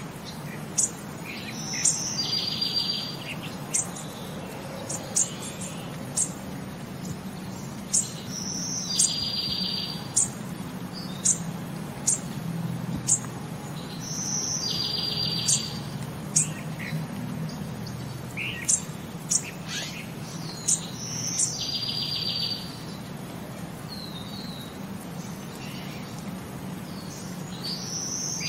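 Birds chirping: short sharp calls about once a second, with a brief trill that comes back every six or seven seconds, over a steady low hum.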